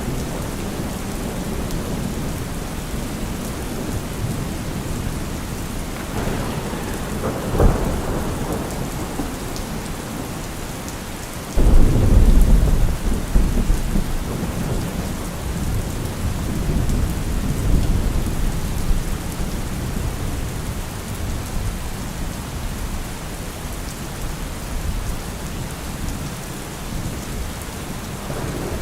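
Steady rain with thunder: a sharp crack about a quarter of the way in, then a loud deep rumble that starts suddenly near the middle and rolls on for several seconds as it fades.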